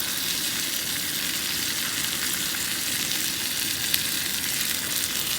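Meat sizzling steadily in a pan over a camping gas stove running at high flame on a fresh gas canister, with a few small pops.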